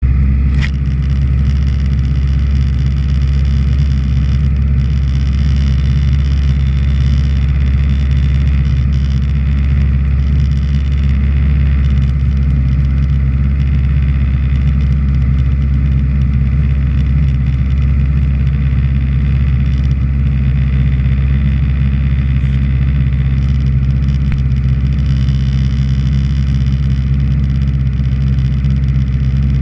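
Honda CBR600RR's inline-four engine idling steadily with the bike standing still.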